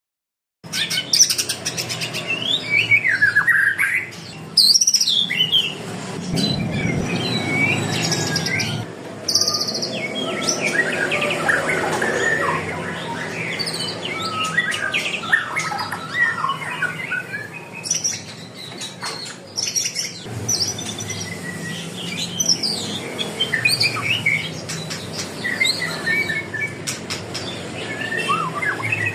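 Many caged songbirds chirping and whistling at once, a dense chorus of overlapping calls. It starts abruptly about half a second in, with a steady low hum underneath.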